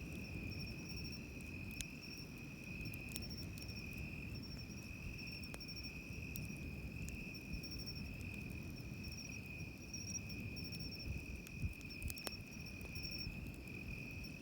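Insects singing steadily, one high unbroken trill with a faster pulsing chirp above it, over a low wash of surf, with sharp snaps from a wood campfire now and then, clustered in a few louder pops near the end.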